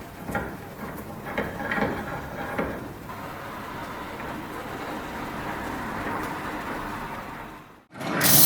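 A few knocks and scrapes of metal parts being handled, then a steady rushing noise. Near the end, after a sudden break, an aerosol spray can starts hissing loudly.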